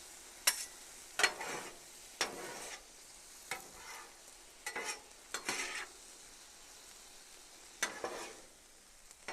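Sweet and sour chicken sizzling on a hot flat-top griddle as it is mixed, with a utensil scraping and clacking against the griddle surface about seven times at irregular intervals over a steady sizzle.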